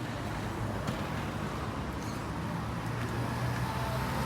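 A steady low engine-like hum over an even outdoor noise, with a faint higher tone coming in near the end.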